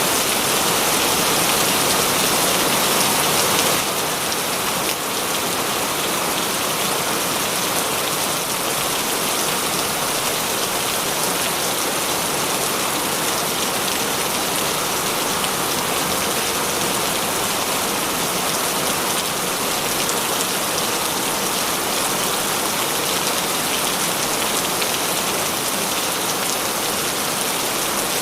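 Heavy rain falling steadily, a dense even hiss of drops, a little louder for the first few seconds and then constant.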